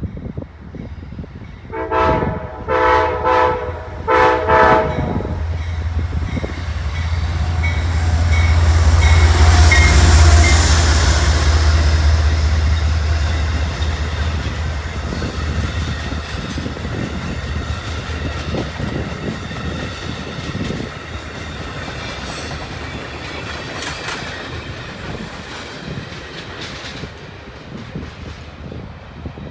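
Amtrak diesel locomotive sounding its horn in several short blasts, then the train passing: a loud low engine rumble at its peak about ten seconds in, followed by the steady rolling and clickety-clack of the cars, gradually fading.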